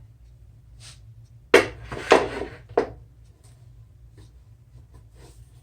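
A few knocks and scrapes of wood and tools being handled on a workbench, the loudest about one and a half to three seconds in, over a steady low hum.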